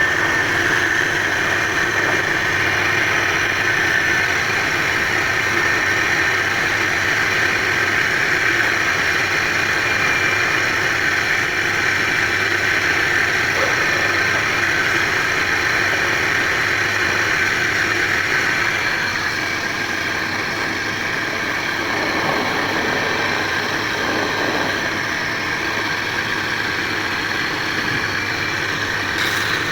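Wood lathe running steadily as a charpai leg is turned.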